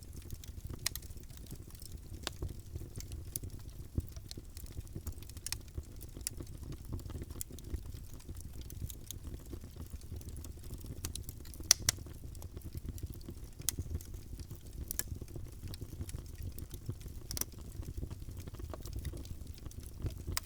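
Wood fire crackling in a fireplace: a steady low rumble of burning under frequent scattered sharp pops and snaps, with the loudest pair of pops about twelve seconds in.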